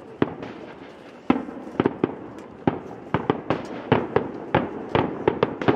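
Fireworks going off in a rapid, irregular string of sharp bangs, sparse at first and coming thick and fast after about a second.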